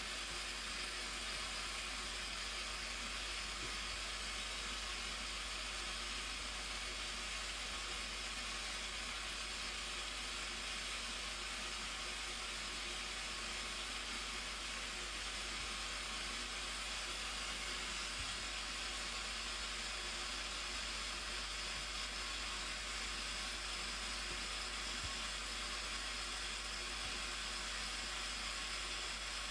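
Waterfall: a steady, even rushing hiss of falling water that does not change.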